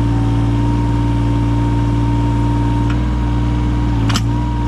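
Yanmar 017 mini excavator's diesel engine running steadily, with a thin high whine over it that stops about four seconds in, where a single knock is heard.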